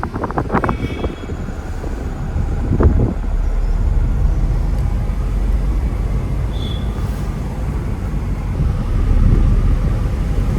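Vehicle driving along a road: a steady low rumble, with a few short knocks in the first three seconds.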